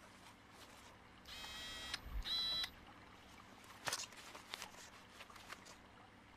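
Two short electronic beeps, one after the other, the second higher and shorter, followed by a few faint clicks.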